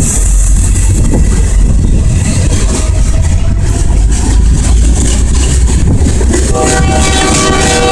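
Freight cars (gondolas, covered hoppers and tank cars) rolling past close by: a loud, steady rumble of steel wheels on rail. Several steady tones join in about six and a half seconds in.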